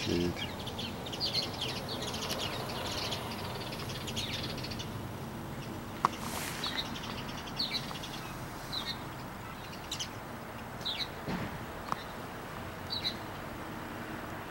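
Small birds chirping: a busy patch of high chirps at first, then single short high chirps about once a second. A single sharp click about six seconds in.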